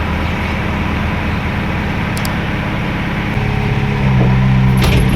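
Diesel engine of heavy machinery running steadily, stepping up to a higher, louder engine note about four seconds in as it is put under more throttle.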